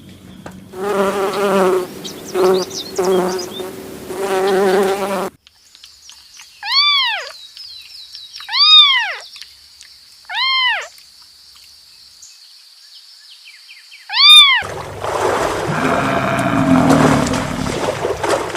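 Several different animal calls in succession: a wavering pitched call given about four times, then three arched calls that rise and fall in pitch with a fourth a few seconds later, then a rough, noisy stretch of calling near the end.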